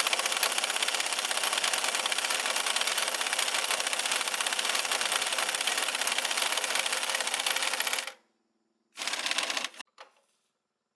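Rapid, even mechanical clattering that goes on for about eight seconds and stops suddenly, then starts again briefly for under a second, ending in a single click.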